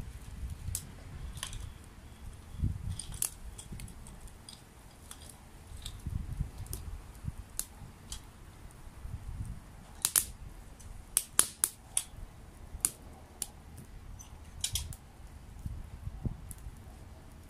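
Campfire crackling: irregular sharp pops and snaps, a cluster of louder ones about ten to twelve seconds in, over a low uneven rumble.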